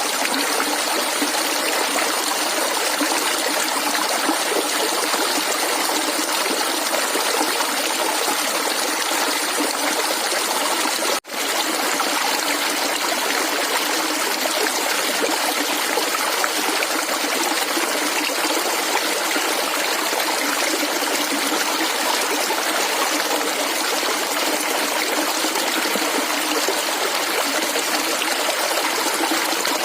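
Shallow stream of water gurgling and trickling steadily, with a momentary dropout about a third of the way through.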